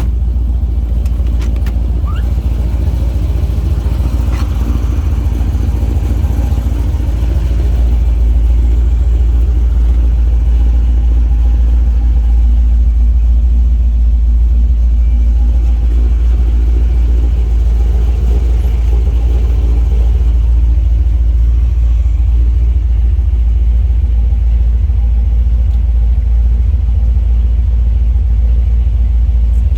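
Fuel-injected 383 stroker small-block V8 of a 1957 Chevrolet Bel Air idling steadily on a cold start, through long-tube headers and Flowmaster exhaust, with most of its sound low down. It grows a little louder from about eight seconds in.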